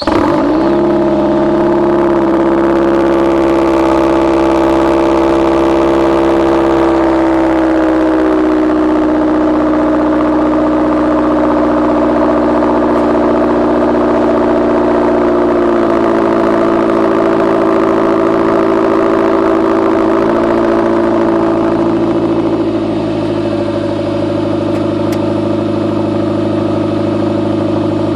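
Straight-piped 2009 Mazdaspeed 3's turbocharged 2.3-litre four-cylinder starting from cold: it catches suddenly with a brief flare, then settles into a loud, steady high idle through the open exhaust, easing slightly lower near the end.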